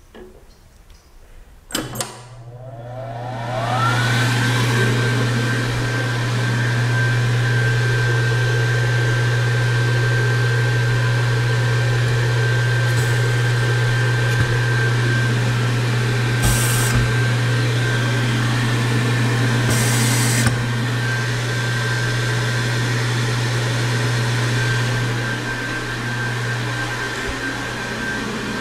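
Electric hand dryer switched on with a click, its motor whining up in pitch to speed and then blowing steadily with a low hum; it eases off near the end.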